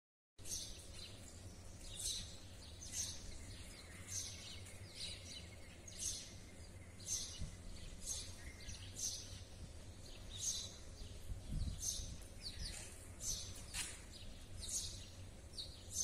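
Short, high bird chirps repeating about once a second over a low, steady background rumble.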